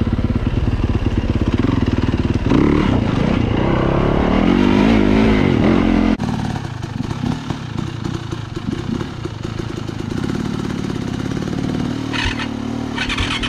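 Dirt bike engine running as the bike is ridden along a trail, the revs rising and falling with the throttle. About six seconds in the level drops suddenly and the engine carries on more quietly, with two brief hissing rushes near the end.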